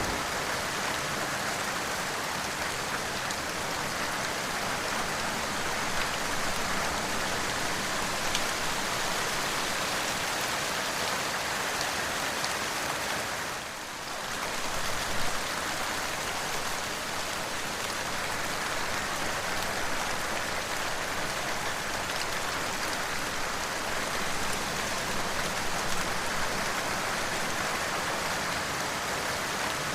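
Steady rain falling, an even dense hiss of drops across the whole range, dipping briefly about halfway through before returning.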